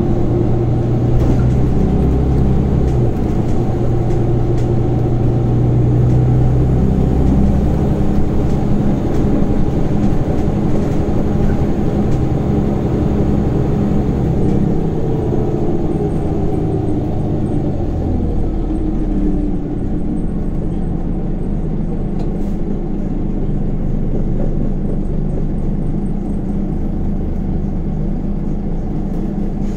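Inside a Scania Omnicity city bus under way: the diesel engine and driveline run with a steady low drone and road rumble. A faint falling whine comes in around the middle, and the sound eases a little about two-thirds through.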